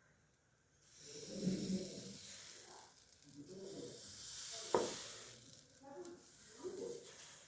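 A hot clay pitha pan sizzling and hissing as something wet touches it, starting about a second in and fading after about four seconds. There are rubbing sounds throughout and one sharp knock about five seconds in.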